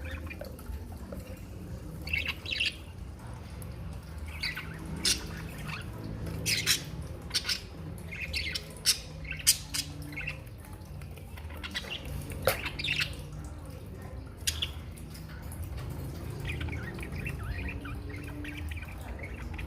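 Pet birds giving short, irregular chirps and squawks over a steady low hum.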